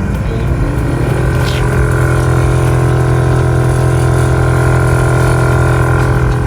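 A car engine revving up and then held at steady revs, a loud, even drone.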